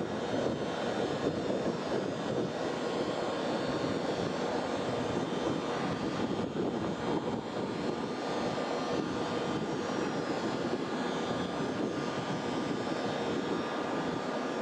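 Shinkansen train noise at the platform: a steady rushing hum with a few faint, steady whine tones over it, level and unchanging.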